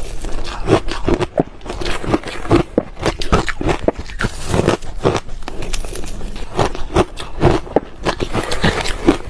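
Ice cubes being chewed and crunched, with dense, irregular crackling crunches one after another.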